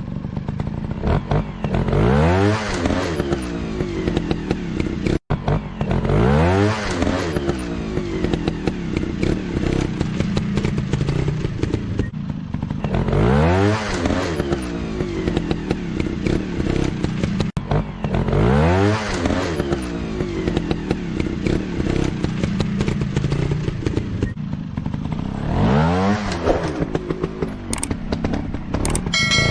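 Dirt bike engines revving hard, the pitch sweeping up and back down about every five seconds over a steady running drone.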